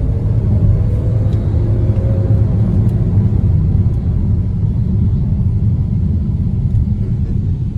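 Steady low engine and road rumble inside the cabin of an Exeed VX crossover driving at speed. A faint engine tone fades out about two and a half seconds in.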